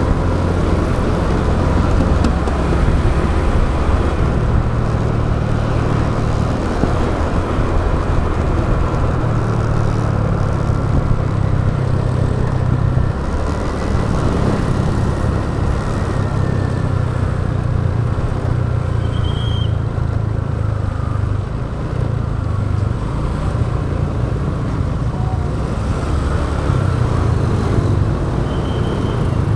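Motorbike engine running while riding, with road and wind noise, picked up by an action camera on the moving bike. The engine's pitch shifts up and down a few times as the speed changes.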